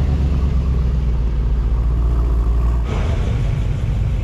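Low, steady engine rumble of a black Mercedes E-Class wagon driving slowly past. About three seconds in it breaks off abruptly into a lighter mix of other car engine noise.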